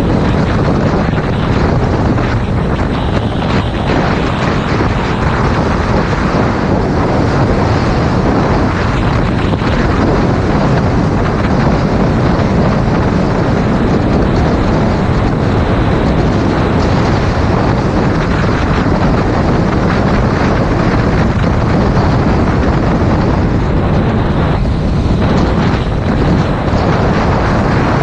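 Loud, steady wind buffeting on a GoPro Hero 5 Black's microphone while riding a 2019 Yamaha MT-07 motorcycle at speed, with the bike's running mixed in underneath.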